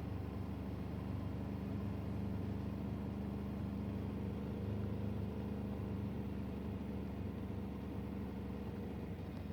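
A vehicle engine running steadily: a low, even hum whose pitch holds constant.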